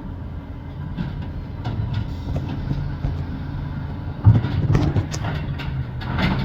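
Amrep garbage truck running with a steady low drone; about four seconds in there is a sharp bang, followed by a couple of seconds of clattering and knocking.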